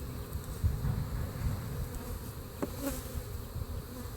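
Swarm of honeybees buzzing around an opened top-bar hive as it is being closed up: a steady low hum, with a single light click about two and a half seconds in.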